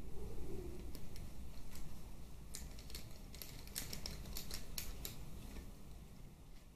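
A run of short, sharp metallic clicks and taps from small tools and parts being handled during engine work, bunched around the middle, over a low steady hum.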